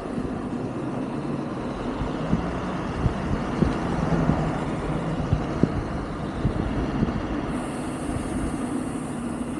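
Wind and road noise from riding an electric scooter on a street, with a low steady hum through the middle and a few sharp knocks from bumps. A high thin whine comes in near the end.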